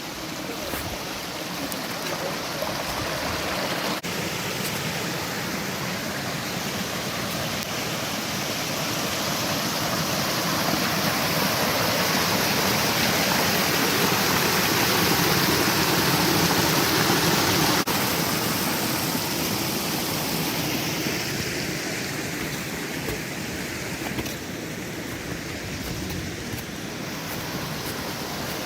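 A rocky forest stream rushing and splashing over stones in a steady wash of water noise. It swells a little louder toward the middle, then eases back slightly after about 18 seconds.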